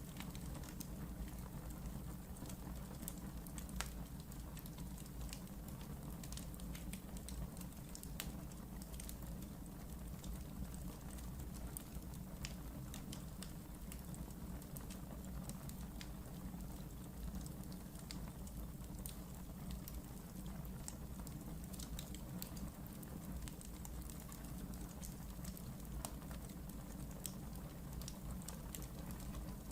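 Wood fire burning in a fireplace, with a steady low rumble and many small irregular crackles and pops throughout.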